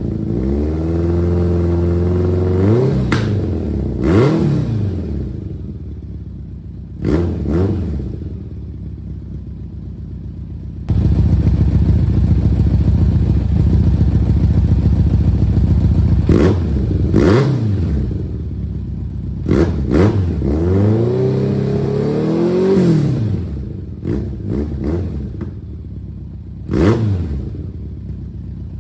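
1991 BMW K1's inline-four engine running through its aftermarket exhaust, revved and let fall back to idle several times, with a few sharp short throttle blips. About a third of the way in it jumps suddenly to louder, steady running.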